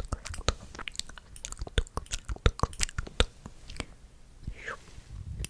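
Close-miked ASMR mouth sounds: irregular wet clicks and smacks of tongue and lips, several a second.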